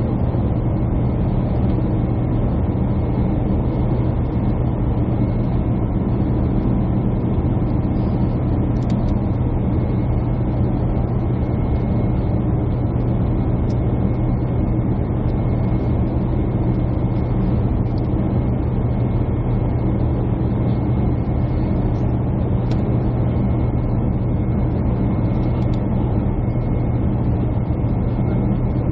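Steady cabin drone of a jet airliner, engine and airflow noise heard from inside the passenger cabin, with a low hum and a faint thin whine running through it.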